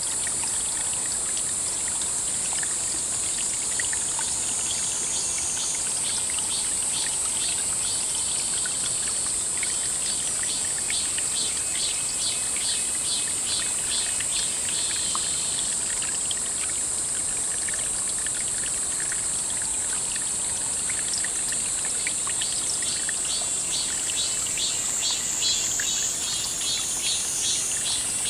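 Insects singing in a steady high-pitched chorus, joined by a second insect's pulsing call from about ten seconds in and again over the last several seconds.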